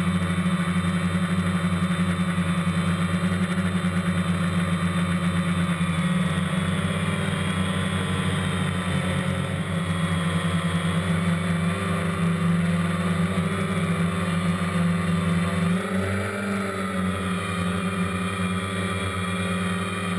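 DJI Phantom quadcopter's electric motors and propellers buzzing steadily, picked up by the GoPro carried on the drone itself. The pitch shifts about sixteen seconds in.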